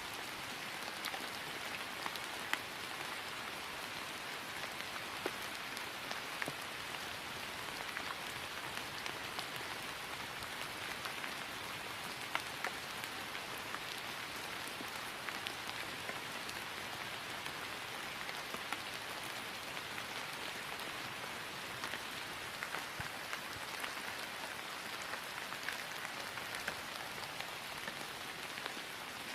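Steady rain falling on grass: an even patter with individual drops ticking through it.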